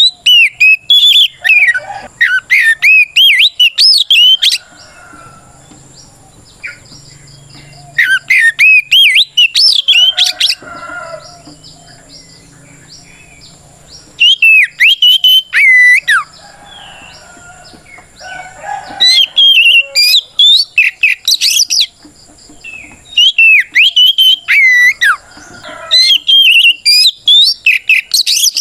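Oriental magpie-robin (kacer) giving its loud, full fighting song, a rival-challenging call: fast runs of sweeping whistled notes in five bursts of a few seconds each, separated by short pauses.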